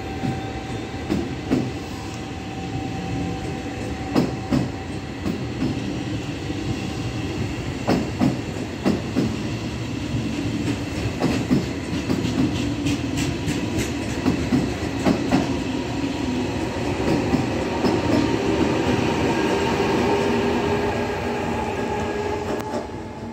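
Passenger train running through the station: wheels clicking irregularly over rail joints and points above a steady running rumble with a faint whine. It grows louder toward the end.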